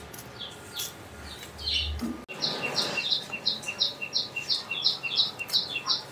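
A bird chirping in a fast, even series, about three short high chirps a second, starting a couple of seconds in after a few scattered chirps.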